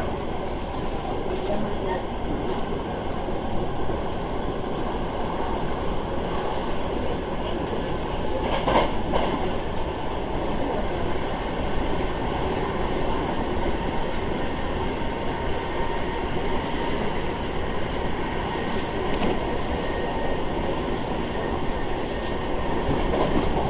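Sanyo Electric Railway commuter train running along the line, heard from inside the car: a steady rumble of wheels on rail with scattered clicks, one louder click about nine seconds in.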